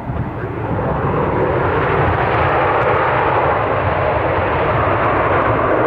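Jet aircraft engines passing close, a loud rushing noise that swells over the first second or two and then holds steady.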